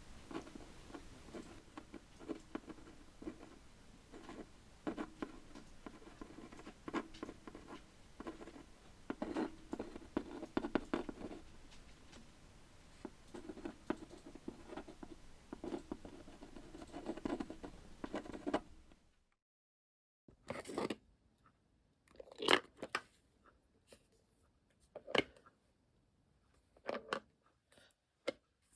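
Small handling noises of craft work at a desk: irregular light scratching, rustling and clicking of tools and materials over room hiss. About 19 seconds in, the background hiss cuts out and a few separate sharp taps follow.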